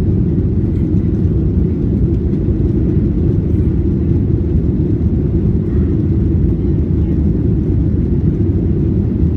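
Passenger airliner cabin noise: a steady, loud low rumble of the engines and airflow heard from inside the cabin.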